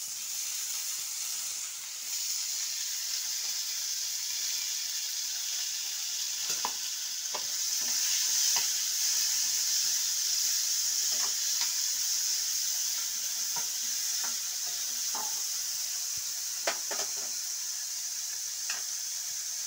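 Chopped onions, garlic and green chillies sizzling in hot oil in a kadai, with a steady hiss that grows louder after a couple of seconds. A metal spatula stirs the pan, scraping and tapping against it now and then.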